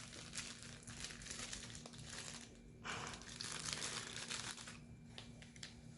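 Plastic bag crinkling as it is handled, in two stretches of about two seconds each, followed by a few light clicks.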